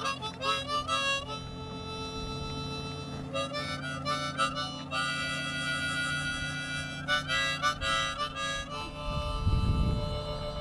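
Harmonica playing a tune, with chords and long held notes between quick rhythmic stabs. A low rumble cuts in briefly about nine seconds in.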